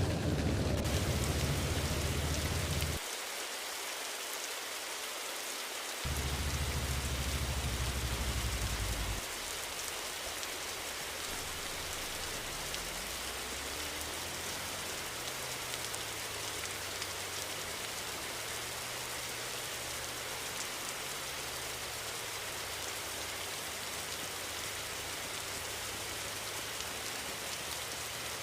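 Steady rain falling on a surface, with a loud low rumble for the first few seconds and again from about six to nine seconds in. From about halfway through, a faint hum rises and then holds steady under the rain.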